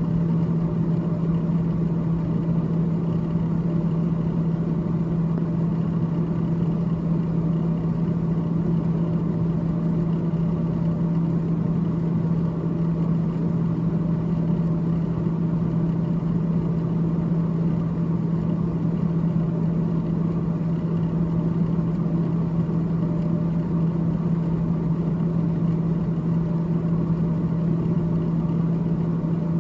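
Freezer evaporator fan of a GE GTH18XCTZRBB refrigerator running, a steady hum with one strong low tone that does not change.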